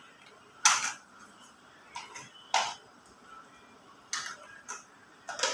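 Plastic toy parts clicking and knocking as a toy dump truck is snapped together by hand: a few sharp clicks a second or two apart.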